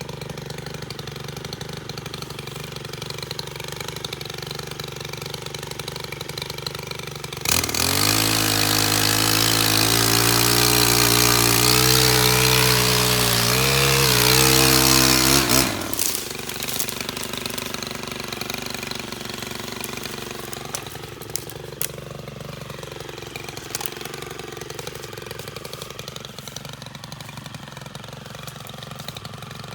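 STIHL KM 131R power head with a pole saw attachment idling, then revved to full throttle about seven seconds in for roughly eight seconds, its pitch wavering toward the end, before dropping back to idle.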